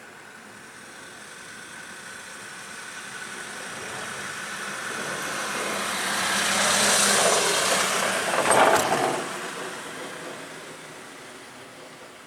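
A road vehicle passing by: its noise builds slowly, peaks a little past the middle, then fades away.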